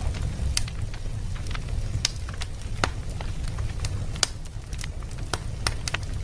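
Wood fire burning in a fireplace, with scattered sharp crackles and pops over a steady low rumble of the flames.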